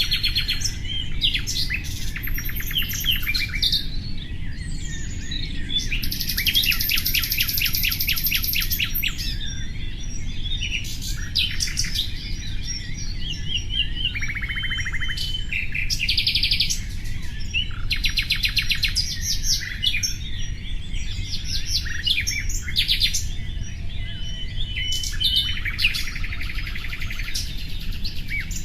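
Common nightingale singing, phrase after phrase of varied song with fast repeated-note trills and held whistles, over a steady low background rumble.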